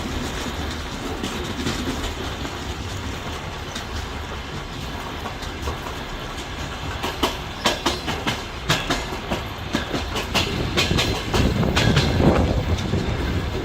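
Train wheels running on the rails: a steady low rumble, then from about seven seconds in a quick series of sharp clicks and knocks as the wheels cross rail joints, with the rumble growing louder.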